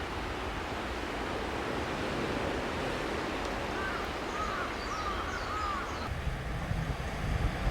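Waves washing on the shore under a steady rushing sea wind. A bird calls about four times in quick succession midway through.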